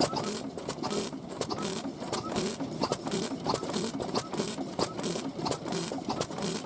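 Old Japanese stationary engines (hatsudouki) running, a regular beat of exhaust strokes about twice a second with quicker mechanical clicking between them.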